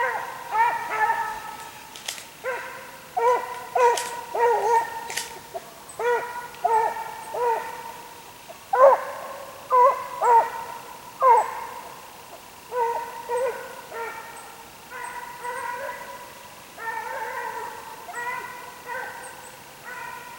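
Deer hounds baying, with repeated drawn-out calls coming in quick clusters throughout, as the dogs run a deer.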